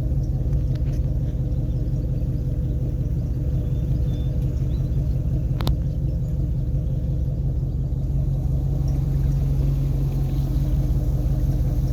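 An engine running steadily with a low, even hum, and a single sharp click about halfway through.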